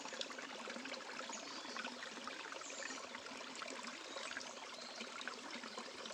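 Steady rush of running water with a few faint, short, high bird chirps over it.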